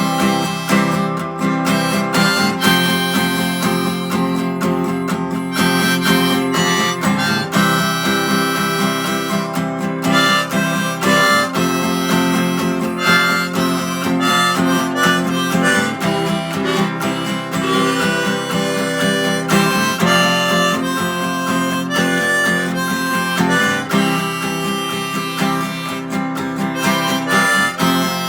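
Harmonica playing a melody over a strummed acoustic guitar, an instrumental break in a song.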